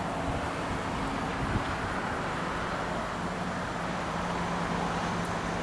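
MARC commuter train approaching, a steady rumble with a low steady hum that sets in about three seconds in.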